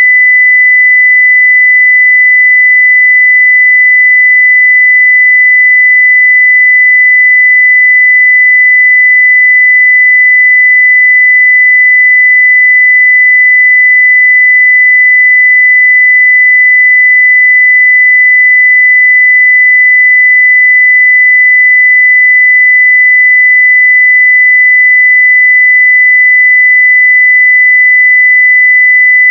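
A steady 2 kHz sine-wave test tone at full level (0 dB), unbroken and unchanging, a single pure pitch.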